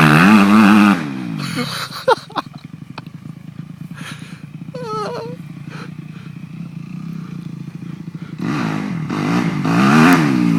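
Motocross bike engine revving up and down hard, then dropping to a lower steady run for several seconds, and revved up and down again near the end.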